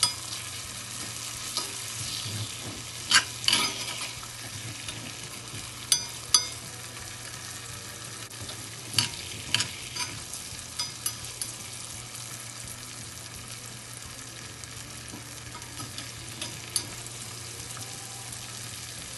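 Cubed liver sizzling steadily in hot oil in a cast-iron skillet, stirred with a metal spoon that clinks and scrapes sharply against the pan about a dozen times, mostly in the first half.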